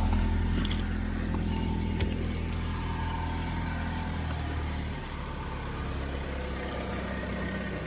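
Ford Focus 2.0-litre four-cylinder idling just after start-up; the fast start-up idle settles lower and quieter about five seconds in.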